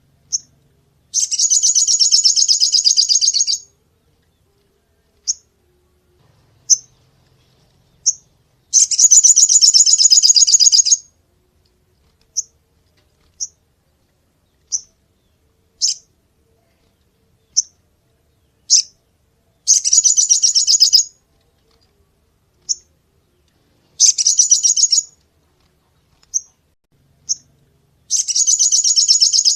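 Sogon songbird calling in sharp, rapid high-pitched trills of about two seconds each, five times, with single short chips in the gaps between them.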